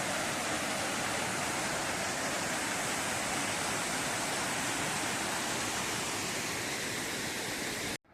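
Steady rush of a waterfall's falling water. It cuts off suddenly at the very end.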